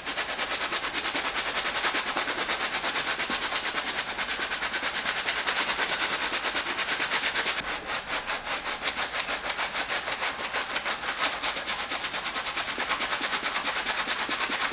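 Soft bristle brush scrubbing a sneaker's upper with cleaning solution, in rapid, even back-and-forth strokes, several a second, easing briefly about halfway through.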